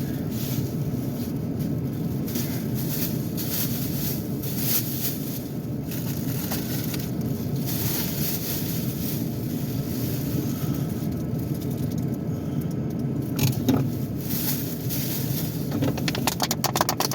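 Ford Edge idling, heard from inside the cabin as a steady low hum while the engine warms up in frigid cold. Small clicks and rattles of objects being handled come twice in the latter part.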